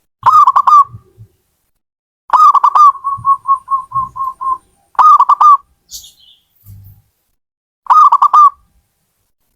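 Zebra dove (perkutut) cooing: four short phrases of quick, clustered coos, one of them running on into a string of short repeated notes.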